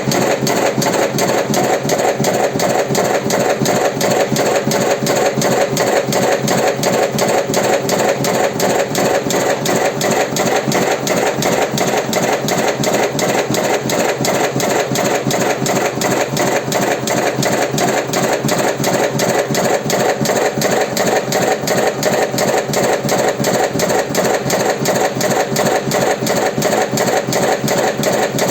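Automatic electric cigarette tube-filling machine running, a steady mechanical sound with a fast, even repeating beat several times a second.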